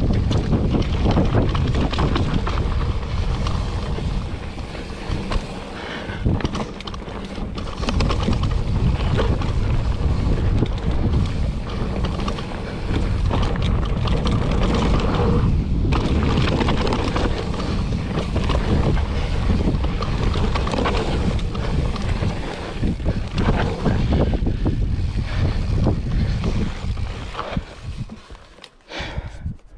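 Wind buffeting the microphone of a camera riding on a mountain bike descending a dirt trail, mixed with tyre rumble and frequent knocks and rattles from the bike over rough ground. It dies down suddenly near the end.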